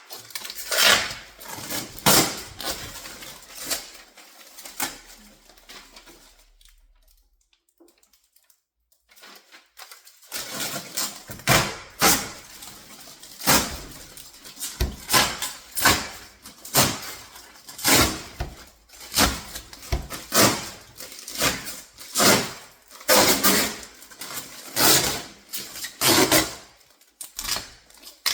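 Hands working over a new refrigerator's plastic parts and packaging: short knocks, scrapes and rustles, falling quiet for a few seconds about a quarter of the way in, then coming again about once a second.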